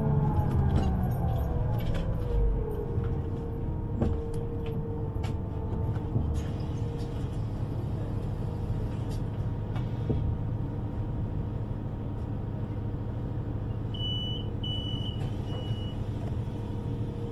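U-Bahn train's motors whining down in pitch as it brakes, over a steady low rumble of the running train; near the end three short high beeps.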